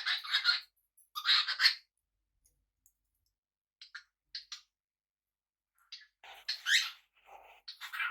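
Small pet parrots chirping and chattering in short bursts. There are two quick bursts at the start, a few short chirps in the middle, then a busier run of calls with a rising whistle near the end.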